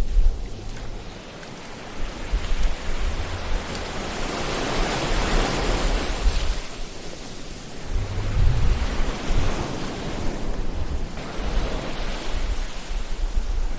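Ocean surf: waves rushing in and washing back, with a swell that builds to a peak about halfway through. A deep rumble comes and goes underneath.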